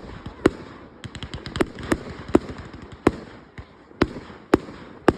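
Fireworks bursting in a display: a string of sharp bangs about every half second, with a quick run of smaller cracks a little after a second in, over a constant crackle.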